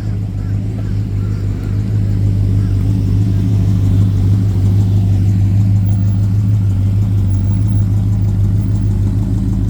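A classic car's engine running at a steady idle, getting a little louder about two seconds in.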